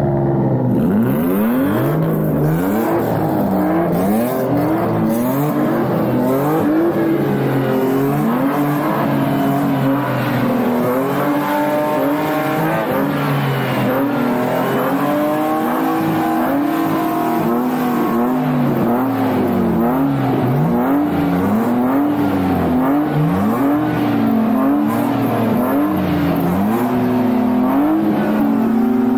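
Several drift cars' engines revving while parked, blip after blip overlapping, each rising and then falling in pitch; near the end one engine holds a steady higher rev.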